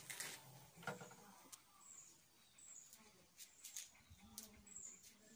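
Faint, high, short chirps of a small bird, each falling slightly in pitch, repeating every half second to a second from about two seconds in, with a single sharp click about a second in.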